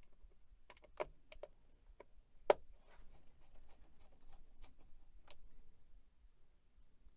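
Scattered light clicks and knocks of computer hardware being handled, the loudest a single sharp knock about two and a half seconds in.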